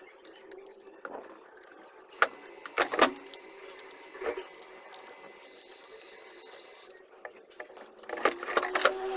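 Scattered metallic clinks and knocks of tool parts and hand tools being handled during reassembly, a few sharper knocks about three seconds in and a cluster near the end, over a faint steady hum.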